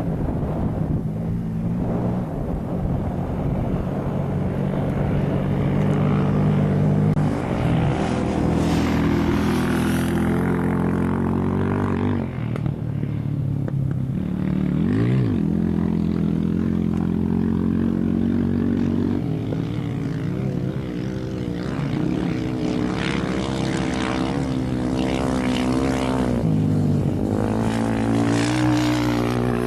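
Engines of passing rally vehicles running continuously, their pitch rising and falling as they go by, with a quick rise and fall about halfway through.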